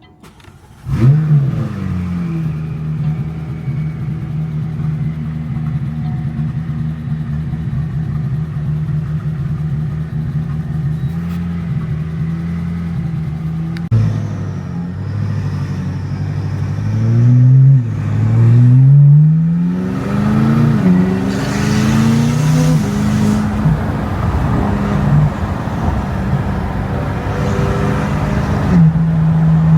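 A car engine starts about a second in: its revs flare up and then settle to a steady idle. From about halfway through it revs up and down repeatedly as the car pulls away and accelerates through the gears, then holds a steady note near the end.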